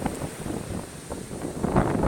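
Stormy sea: surf and wind, with wind buffeting the microphone. It eases off in the middle and swells again near the end.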